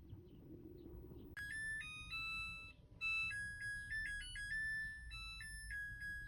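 Front-load washing machine's electronic beeper playing a short melody of plain stepped tones, starting about a second in, over a low rumble. It is the machine's signal that the drum calibration cycle has finished.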